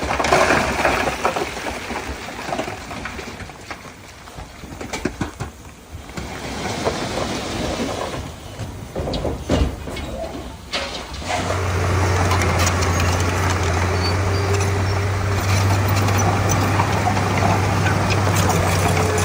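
Heavy diesel earthmoving machinery at work: irregular knocks and clattering for the first half, then, about eleven seconds in, a steady low diesel engine drone that holds evenly.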